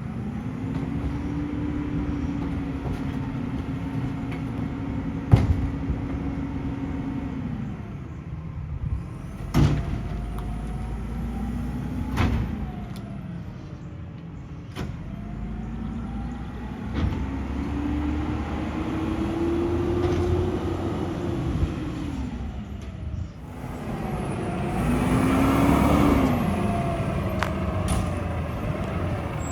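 Mack LEU garbage truck's diesel engine revving up, holding and dropping back to idle three times, as it does when the rear packer runs, with a few sharp metallic knocks in between.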